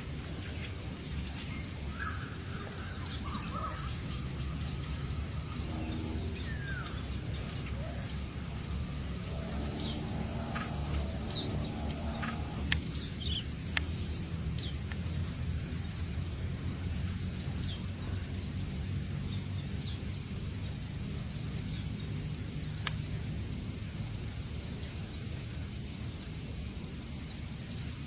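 Insects chirping in a steady, fast pulsing trill, with scattered short chirps of a pied bushchat (decu) mostly in the first half, over a low background rumble.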